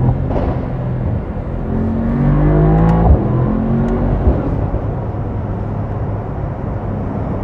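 Mercedes-AMG SL 63's twin-turbo V8 heard from inside the cabin, rising in pitch as the car accelerates for about a second, then dropping back with a sharp thump about three seconds in. It then settles to a steady drone with road rumble.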